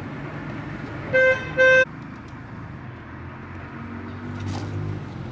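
Two short honks of a vehicle horn in quick succession, the second a little longer, over a steady background hum.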